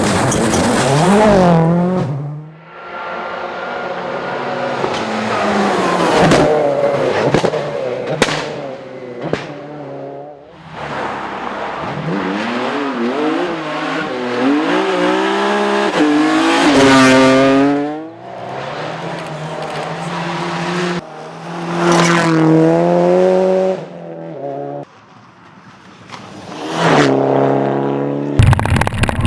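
Rally cars at full throttle, engine pitch climbing and dropping back with each gear change, one car after another with abrupt breaks between them.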